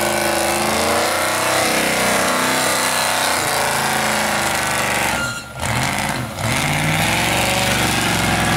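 Holden Commodore V8 revving hard through a burnout, the engine pitch rising and falling over the hiss of the spinning rear tyres. About five and a half seconds in the revs drop off sharply twice in quick succession, then the engine picks up again.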